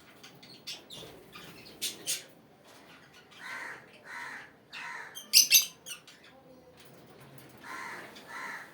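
A baby bird calling: a series of harsh, caw-like calls about half a second each, and two pairs of sharp, high-pitched squeaks, the loudest about five seconds in.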